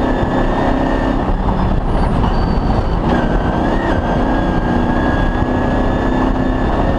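Off-road rally vehicle's engine running steadily under load, with a thin high whine over it that drops out about a second in and comes back about two seconds later.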